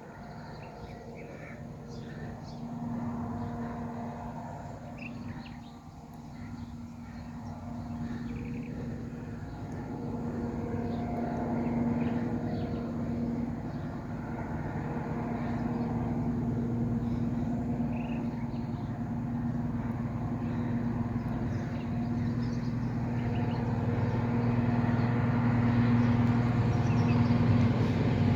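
A train approaching, its engine a steady hum that grows steadily louder. Birds chirp faintly in the background.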